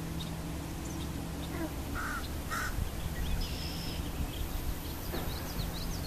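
Wild birds calling: two short harsh calls about two seconds in, then a quick run of thin high chirps near the end, over a steady low background hum.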